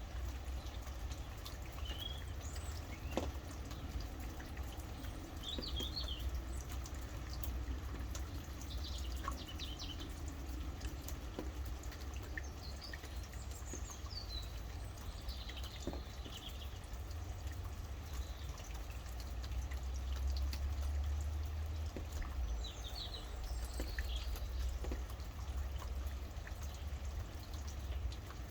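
Rain falling and dripping steadily, with birds chirping briefly every few seconds. A steady low rumble runs underneath.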